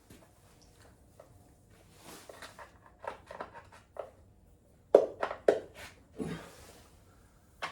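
Hand tools clinking and scraping against metal engine parts during a teardown, with a quick run of four sharp knocks about five seconds in.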